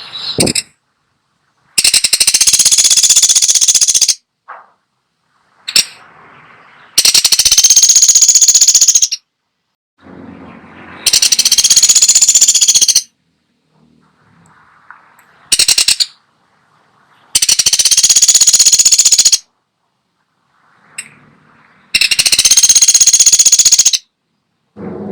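Woodpecker (pelatuk sampit) calling: five fast, high rattles about two seconds each, repeated every few seconds, with a couple of short bursts between them.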